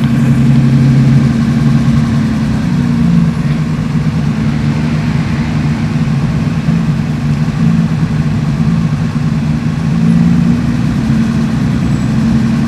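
Car engines running at low speed, a steady low drone whose pitch shifts a couple of times as the engine note changes.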